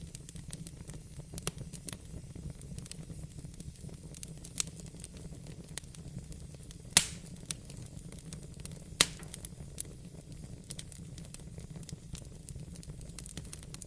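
Fireplace fire crackling: a steady low rumble under frequent small snaps, with two louder pops about seven and nine seconds in.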